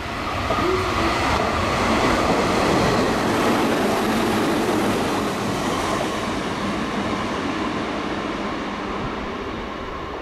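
Red Meitetsu electric train passing through a station at speed without stopping: the running noise of its wheels on the rails builds as it comes close and then slowly fades as it pulls away.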